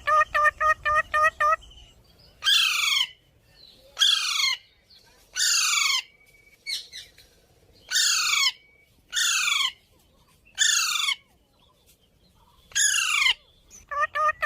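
Young Alexandrine parakeet calling: a quick run of short chirps, then a string of about seven falling squawks, each about half a second long and a second or more apart, and quick chirps again near the end.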